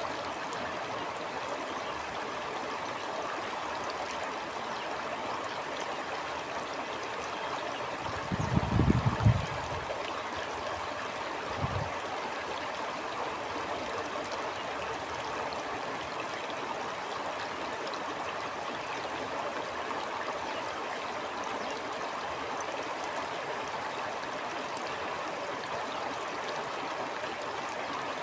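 Stream water flowing steadily over stones. About a third of the way in there is a low rumble lasting about a second, and a shorter one soon after.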